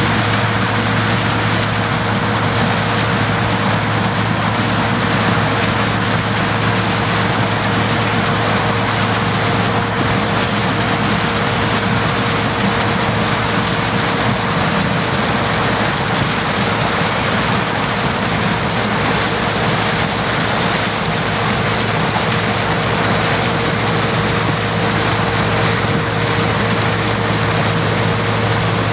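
John Deere 105 combine running steadily, a constant engine and machinery drone with a steady low hum that does not change.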